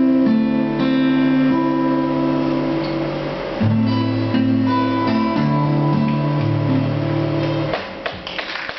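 Acoustic guitars strumming and picking the closing bars of a song, ending on a held chord about eight seconds in, with clapping starting as it stops.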